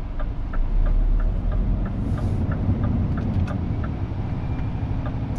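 Scania truck's diesel engine running low inside the cab, swelling for a moment about two seconds in as it pulls away, with the turn indicator ticking evenly about three times a second.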